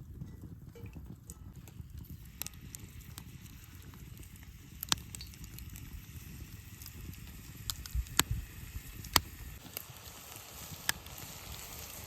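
Scattered sharp clicks and crackles, irregular and a few seconds apart, over a steady low rumble.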